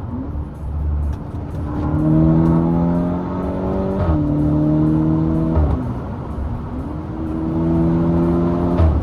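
Volkswagen Golf GTI Mk6 Edition 35's turbocharged 2.0 TSI four-cylinder, breathing through a decat downpipe, accelerating hard through the gears. The revs climb and drop sharply at three DSG upshifts, each marked by a short exhaust blat, the DSG 'fart'.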